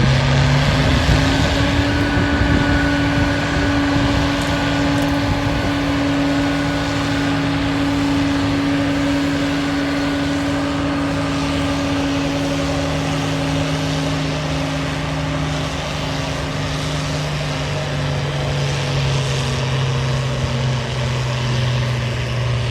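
Farmall diesel tractor engine pulling under load. Its pitch rises just after the start, holds steady for most of the time, then sags gradually over the last few seconds.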